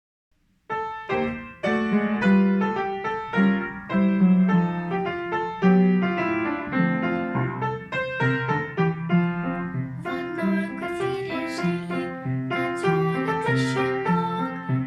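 Piano playing a children's song accompaniment, starting about a second in.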